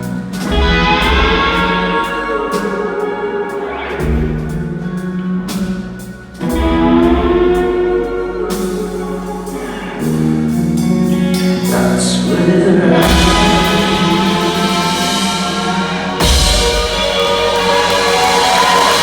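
Rock band playing live: a sung vocal line over electric guitar and drums, with a big full-band hit about three-quarters of the way through.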